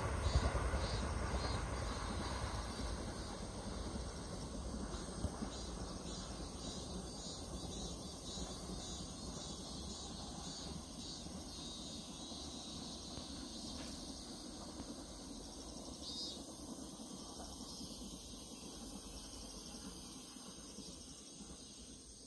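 ITX-Saemaeul electric train's running rumble fading steadily as it draws away into the distance. Insects chirp throughout, their high, evenly repeating chirring coming to the fore as the train dies away.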